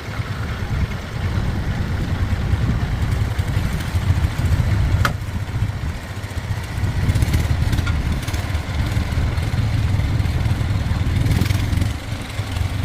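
An engine running steadily with a low, uneven rumble. One sharp click comes about five seconds in.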